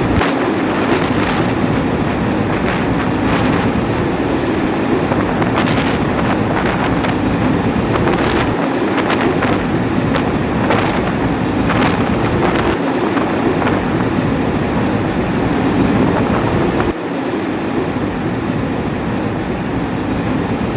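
Blizzard wind blowing hard across the microphone: a loud steady rush broken by frequent short, sharp blasts of gusts.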